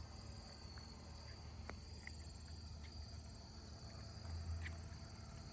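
Evening insect chorus: a steady, high-pitched trilling with a faster pulsing note above it, over a faint low hum that swells briefly about four seconds in.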